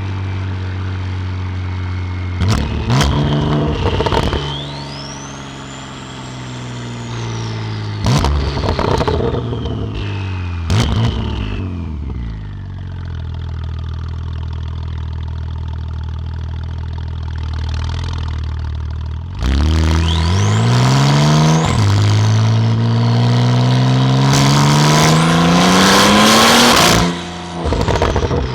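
Porsche 911 Carrera 991.2 twin-turbo flat-six with a titanium exhaust, driving along with a few short bursts of throttle and a high whistle that rises and falls. From about two-thirds of the way in it accelerates hard: the pitch climbs, drops once at an upshift, climbs again, then falls away sharply near the end as the driver lifts off.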